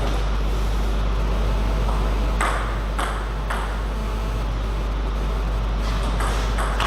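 Table tennis ball clicking against rackets and the table during a rally: a run of sharp clicks about half a second apart, then more near the end, over a steady low hum.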